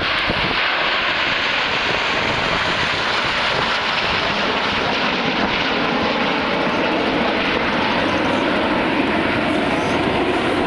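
Airplane engine noise, loud and steady, with no clear rise or fall.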